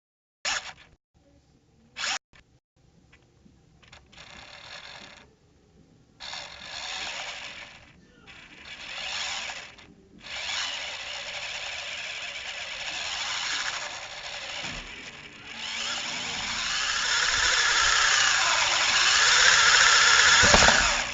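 Parrot quadcopter drone's electric motors and propellers whirring, cutting in and out a few times and then running continuously, growing louder toward the end. Two short sharp sounds come in the first couple of seconds.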